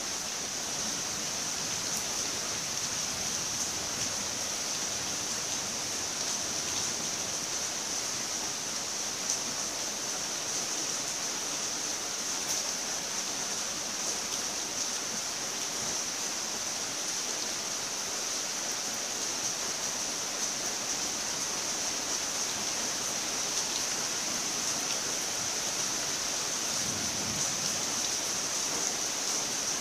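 Steady rain falling: an even hiss, strongest high up, with occasional faint ticks.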